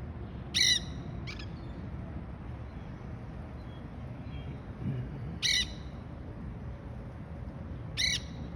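Monk parakeets (Quaker parrots) giving short, harsh squawks: three loud calls spread over the few seconds, with a fainter one just after the first, over a steady low background rumble.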